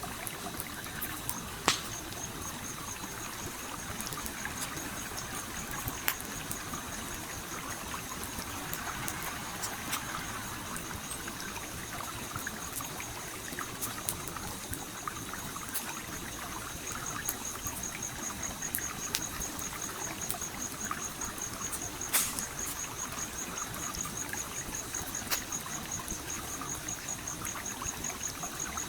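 Stream water flowing and trickling steadily, with a campfire crackling: sharp wood pops every few seconds, the loudest about two seconds in and about twenty-two seconds in. A high, rapidly pulsing trill starts about two seconds in and continues steadily.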